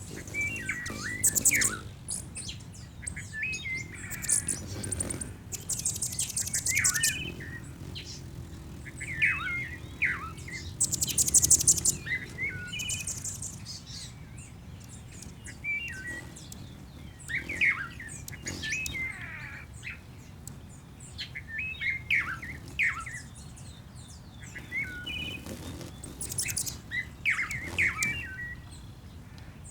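Bird-song ambience of several small birds: short chirps and calls every second or two, with a few high, buzzy trills over a faint low rumble.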